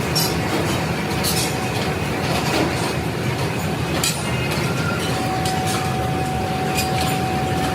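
Leaf spring production machinery running steadily, with sharp metal clanks every second or few, and a steady whine joining about five seconds in.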